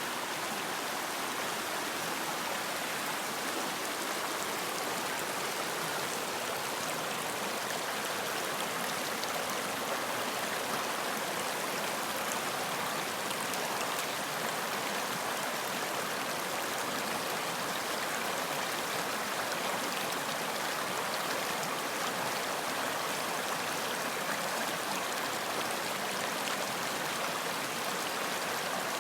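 Steady rush of running water, a stream flowing over rocks, an even hiss without breaks.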